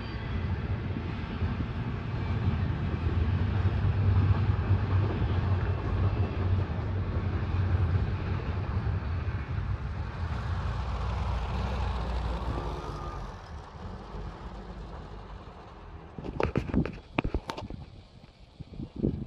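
Double-stack intermodal freight train rolling past, a steady low rumble of wheels on rail that fades away about two-thirds of the way through. Near the end, a quick run of sharp knocks.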